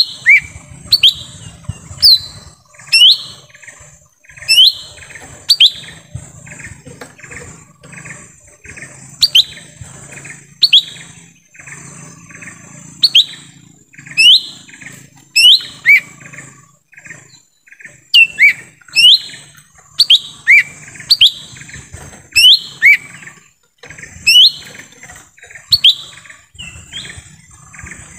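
Lesser green leafbird (cucak ijo mini) calling: loud, sharp, sweeping chirps about once a second, with quicker, softer chattering notes between them. A steady high hiss runs underneath.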